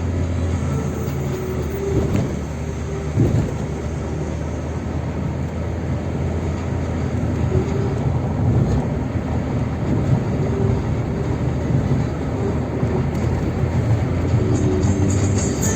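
Steady rumble of a vehicle driving along a road: engine and tyre noise.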